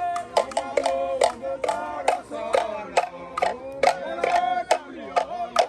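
A group of voices singing together in several parts, with frequent sharp percussive hits keeping time through the song.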